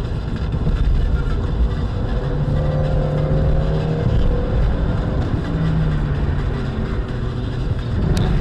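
A car driving, with steady engine and road rumble. A droning tone joins in for a few seconds in the middle, and a short sharp click comes near the end.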